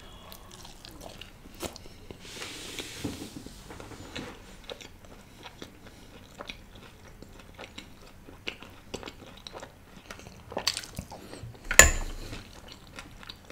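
Close-miked biting and chewing of a fried piece of food: many small crunches and mouth clicks, with a short breathy hiss about two seconds in and two louder crunches near the end.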